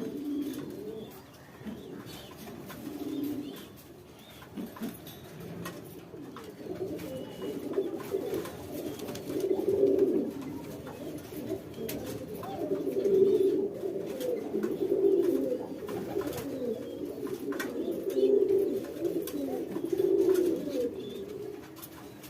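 Domestic pigeon cooing: low, repeated coos every couple of seconds, growing louder about a third of the way in.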